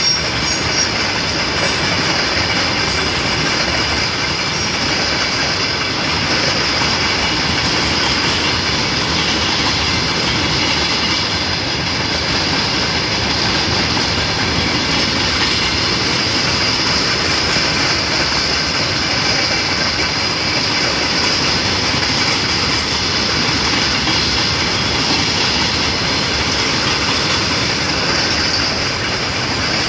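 Loaded freight train of covered hopper wagons rolling past close by: a steady noise of steel wheels running on the rails, with a steady high-pitched ring above it.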